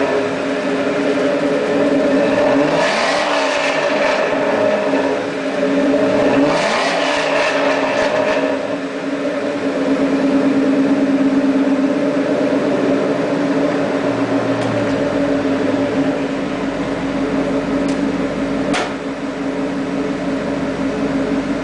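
2003 Ford Crown Victoria's 4.6-litre V8 heard through a Flowmaster cat-back exhaust, revved up and back down twice, then running steadily. A single sharp click comes near the end.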